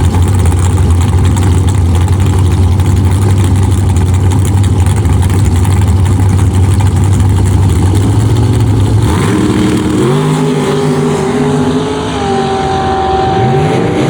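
Drag-racing car engine under a heavy, steady low rumble, then coming off the throttle about nine seconds in. Afterwards the engine runs at lower revs, its pitch rising and falling.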